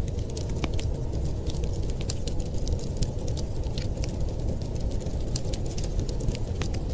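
Wood fire crackling with many scattered sharp pops and snaps, over a steady low rumble of winter storm wind.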